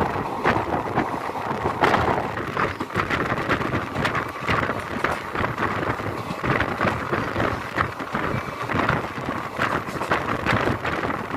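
Express passenger train running along the rails, heard from on board: a steady rushing noise full of frequent, irregular clacks and rattles from the wheels and coaches, with wind noise on the microphone.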